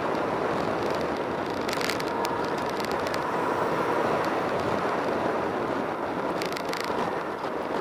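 Steady rushing vehicle noise with a faint steady tone in it, and a few brief clicks or rattles about two seconds in and again near the end.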